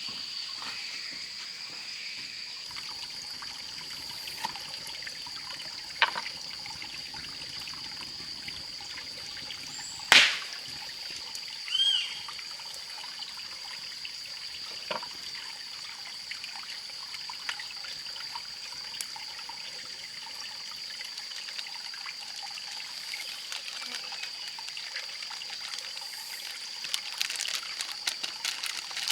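Water trickling, under a steady high-pitched whine. Scattered sharp clicks and knocks, the loudest about ten seconds in, with a short chirp near twelve seconds and a quick run of small clicks near the end.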